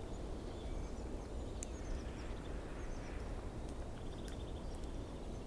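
Outdoor ambience of a steady low rumble with small birds chirping faintly, short high calls scattered throughout and a quick trill about four seconds in.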